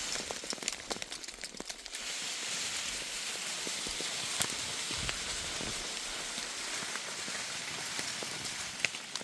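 Water running and splashing over rocks: a steady hiss with scattered small ticks and drips.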